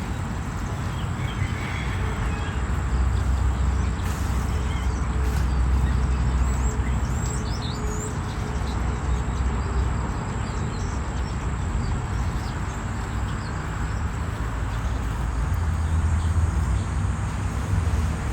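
Steady outdoor noise with a low rumble, and a few short bird chirps about seven seconds in.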